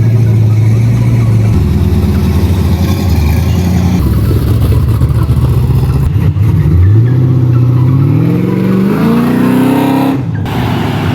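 Car engine running loudly at a steady speed, then revving up in a long rising pull for about three seconds before the sound cuts off suddenly.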